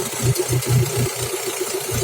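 Chevrolet F16D3 1.6-litre four-cylinder petrol engine running evenly with a steady, rhythmic exhaust pulse. It growls through a holed muffler, but it is not misfiring or shaking and the camshafts are not rattling.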